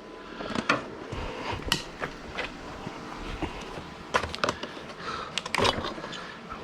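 Irregular clicks and knocks of freshly welded steel brackets being handled and worked loose.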